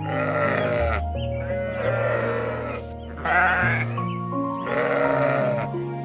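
Livestock bleating: four quavering bleats, the third one loudest, over gentle background music.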